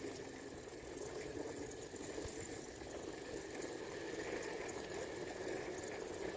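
Steady rushing noise from riding a bicycle: wind over the microphone mixed with the tyres rolling, holding at an even level.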